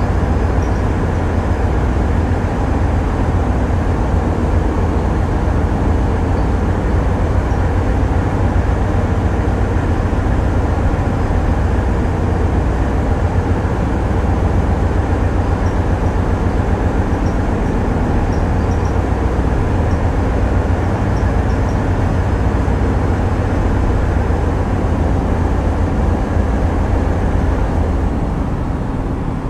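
Tugboat's diesel engines running steadily, a loud deep drone with a fast low throb and a few steady tones above it.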